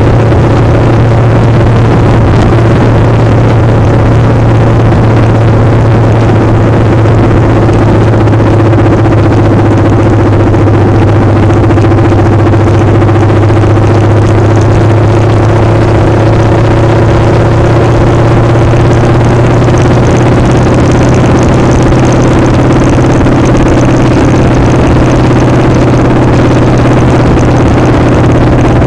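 Motorcycle engine running steadily at an even pitch, with loud wind noise on the microphone.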